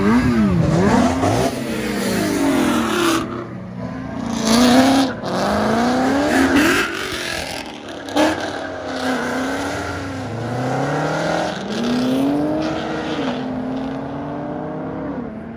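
Car engine revving hard and accelerating, its pitch climbing and falling back again several times.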